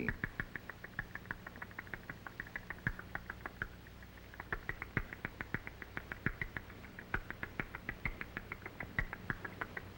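Young barn owls calling in a rapid string of short, high chirps, several a second, with a brief lull about four seconds in. The calls are the food-begging of hungry owlets, heard over the steady low hum of an old film soundtrack.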